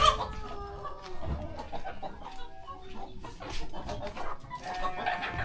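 Village chickens clucking, with a short loud call right at the start and more calls scattered through the rest.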